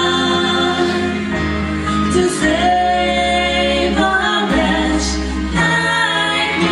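Gospel vocal group of mixed male and female voices singing long held notes over music accompaniment, with a bass line that moves to a new note every second or two.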